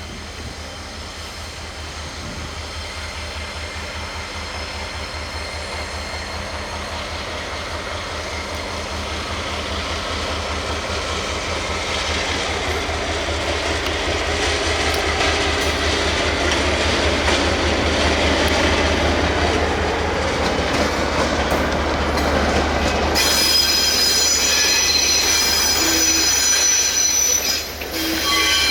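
A locomotive-hauled train rolling slowly on depot track, growing steadily louder as it approaches, with high-pitched wheel squeal setting in about 23 seconds in.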